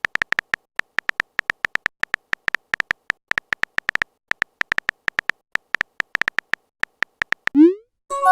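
Phone keyboard typing sound effect: a rapid, irregular run of short tapping clicks, followed near the end by a short rising swoop like a message-sent sound.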